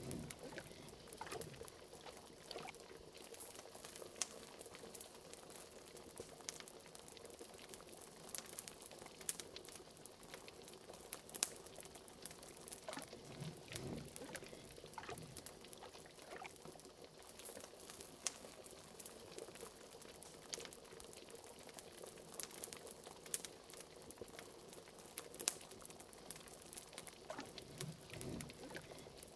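Cauldron of liquid bubbling at a steady boil: many small pops and clicks throughout, with a deeper bubble blurp now and then, over a faint steady hum. Fireplace crackle is mixed in.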